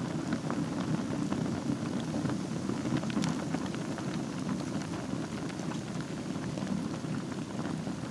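Wood fire burning in a fireplace: a steady low rush of flames with many scattered crackles and pops.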